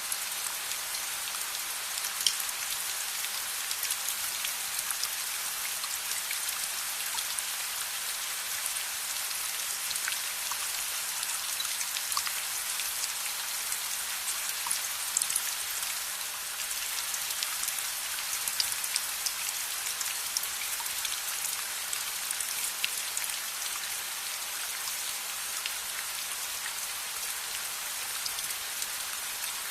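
Steady rain, an even hiss, with scattered sharp ticks and crackles throughout.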